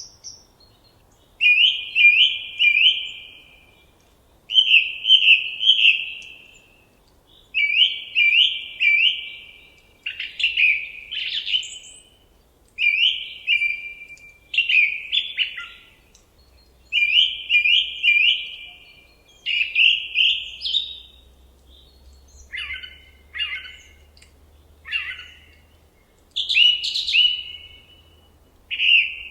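A songbird singing the same short phrase of three or four quick notes over and over, about one phrase every three seconds, with faint higher chirps between. A few sharper single notes come just past the middle.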